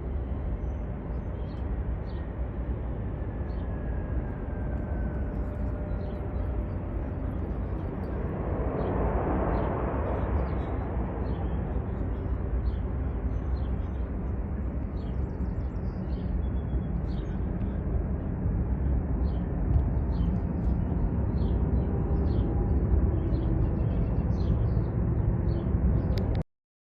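Steady low rumble of a jet airliner taking off in the distance, swelling briefly about a third of the way in, with small birds chirping throughout. The sound cuts off suddenly near the end.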